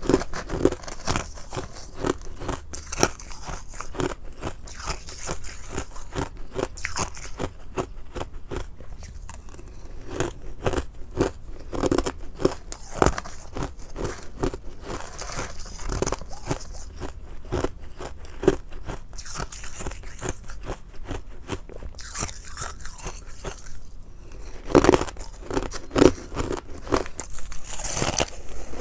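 Close-miked crunching of ice being bitten and chewed: a steady run of sharp cracks and crackles, louder near the end.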